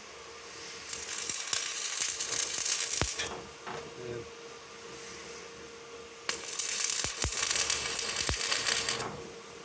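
Electric arc welding on a truck drive shaft: a crackling, sizzling hiss in two runs of two to three seconds each, stopping and starting again, with a few sharp clicks.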